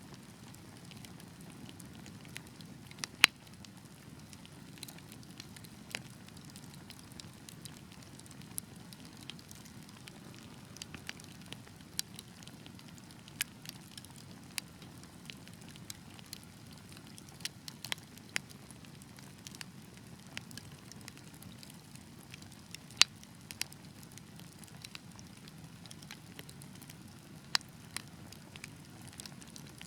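Wood fire burning: a steady low rumble of flames with irregular sharp crackles and pops, a few louder snaps standing out, the loudest about three seconds in and again about two-thirds of the way through.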